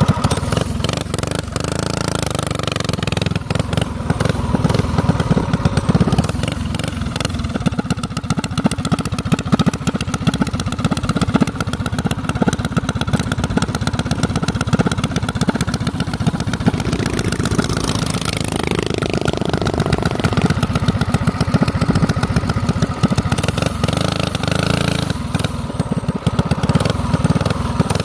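Minibike's small engine running steadily, with a brief shift in pitch about two-thirds of the way through.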